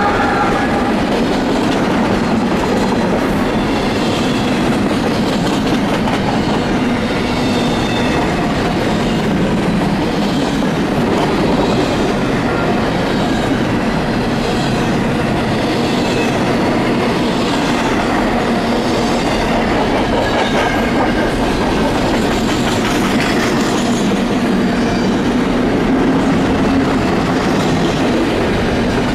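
Double-stack container well cars of a freight train rolling past close by: a steady rumble of steel wheels on rail with clickety-clack over the joints. A whine from the mid-train Union Pacific locomotive fades out in the first second.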